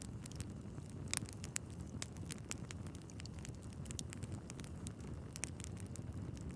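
Wood fire burning in a fireplace: logs crackling with irregular sharp pops over a low steady rumble of the flames.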